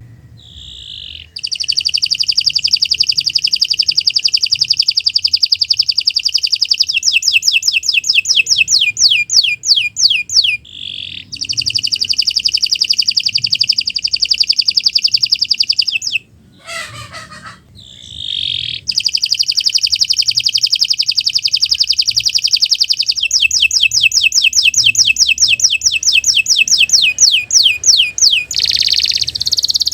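Domestic canary singing long, loud rolling trills in three phrases with short pauses between. The first and last phrases start as a very fast trill and slow into distinct repeated notes, about six a second.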